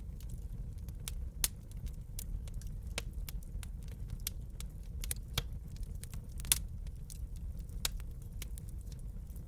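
Wood fire crackling in a fireplace: frequent, irregular sharp pops and snaps over a steady low rumble of burning, the loudest pop about six and a half seconds in.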